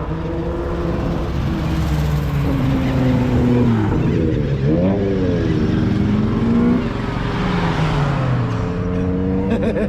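Car engines running as cars drive past, several engine notes overlapping and shifting in pitch. One engine note dips and rises sharply about halfway through as it revs.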